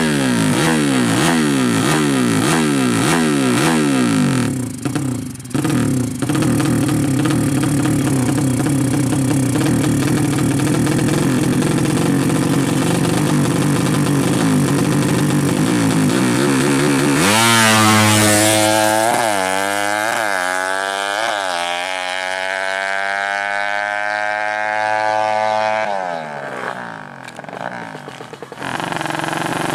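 Racing motorcycle engines at high revs, the pitch rising and dropping again several times a second. About two-thirds of the way through, one bike runs up loud and close, its pitch climbing steadily with three quick dips like gear shifts, then falling away near the end.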